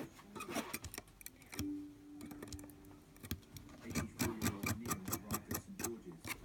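Rapid small clicks and ticks from hand tools working a vape atomiser's coil build deck, sparse at first and quickening to about four or five a second from about four seconds in.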